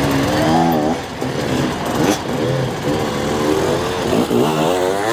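Enduro motorcycle engine revving hard, its pitch rising and falling with repeated throttle blips and a sharp rev-up near the end.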